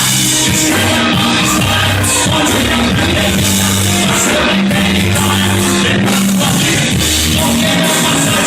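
Loud rock-style band music with singing, held bass notes and a steady drive.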